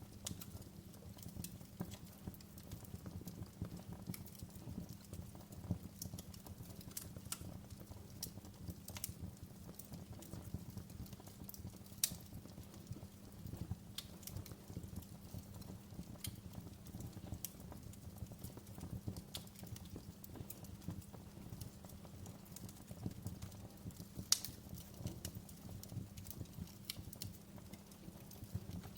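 Wood fire crackling in a fireplace: irregular sharp pops and snaps over a low steady rumble of the flames, with two louder pops, one near the middle and one later on.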